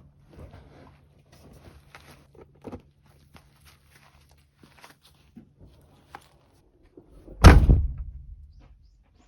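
Faint scattered clicks and rustles of handling, then a single loud thump like a door slamming about three quarters of the way in, dying away over about a second.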